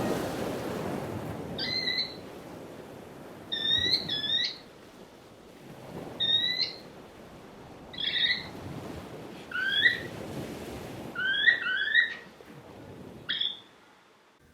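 Short bird calls repeated every second or two, some single and some in quick pairs, a few rising in pitch, over the hiss of surf that fades away; the calls stop shortly before the end.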